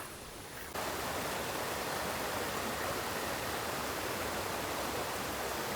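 Steady rushing of a stream flowing over rocks, cutting in abruptly less than a second in and holding level.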